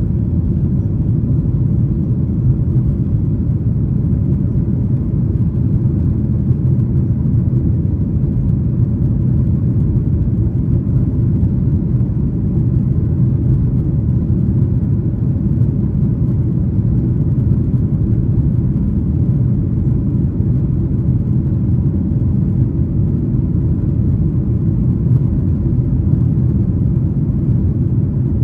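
Cabin noise inside a Boeing 737-900ER heard from a window seat behind the wing: a steady low rumble of the CFM56 engines and airflow, with no changes in pitch or level.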